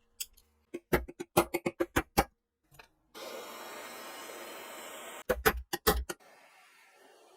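Sharp metallic clicks and clacks of gun parts being worked by hand, about ten in a quick run, then a steady hiss for about two seconds, then a few more clicks.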